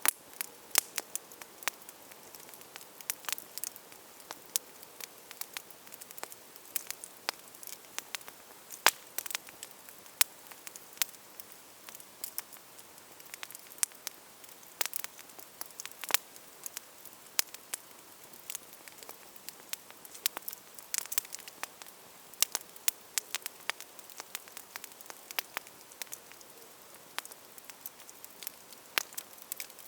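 Wood campfire crackling: irregular sharp snaps and pops, several a second at times, over a soft steady hiss.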